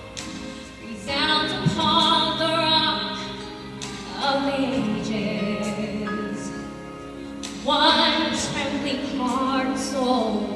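A woman singing held notes with strong vibrato over musical accompaniment.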